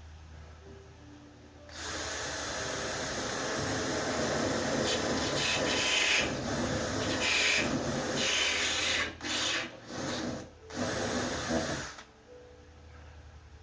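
Power drill boring a pre-drilled hole, the bit grinding for about ten seconds with a few short pauses near the end. The user thinks the bit has gone dull.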